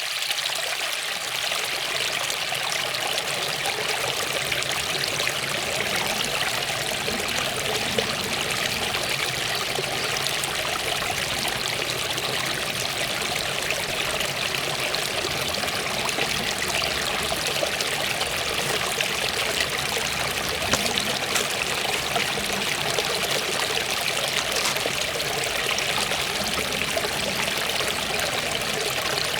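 Waterfall: a steady rush of falling and splashing water that does not change.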